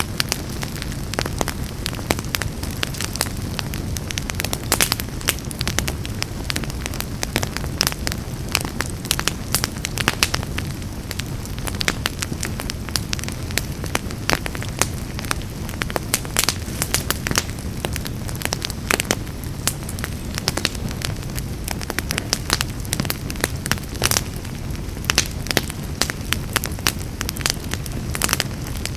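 Wood fire burning in a fireplace, crackling steadily with many irregular sharp pops and snaps over a low, even rumble of the flames.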